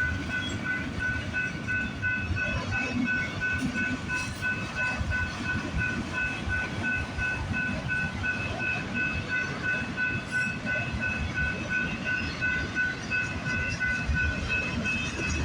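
CPKC freight train cars rolling past: a steady low rumble with the clatter of wheels over the rails. Over it runs an even, repeating high ding, about two to three a second.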